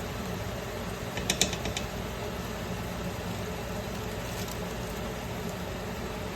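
A steady low mechanical hum, with a quick run of sharp clicks about a second and a half in.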